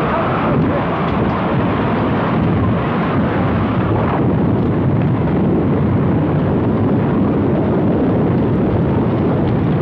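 Tornado-force wind blasting the microphone: a loud, steady rushing rumble with no let-up.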